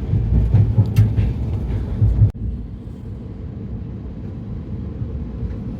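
Running noise of a moving passenger train heard from inside the coach: a steady low rumble with a few knocks in the first two seconds. About two seconds in the sound breaks off sharply and goes on as a quieter rumble.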